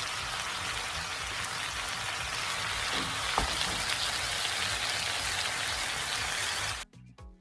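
Stir-fried rice vermicelli with prawns and chicken sizzling in a hot pan, a steady hiss, with one sharp tap about halfway through. The sizzle cuts off abruptly near the end.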